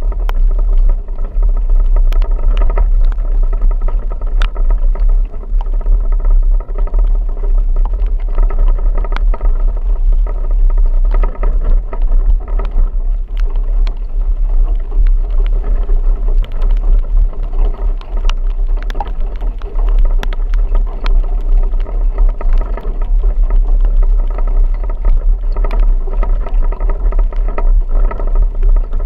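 A vehicle driving, heard with a loud, steady low rumble of engine and road noise and scattered sharp ticks.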